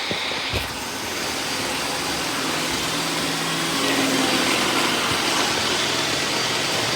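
Several robot vacuum cleaners running together: a steady whir of suction motors and brushes.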